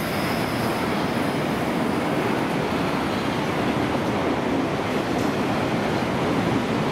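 A train passing on the main line: a loud, steady noise of wheels running on rail.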